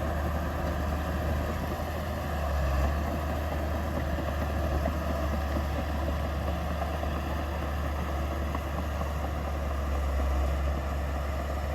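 Diesel engine of heavy earthmoving machinery running steadily with a deep, even hum, swelling slightly in loudness now and then.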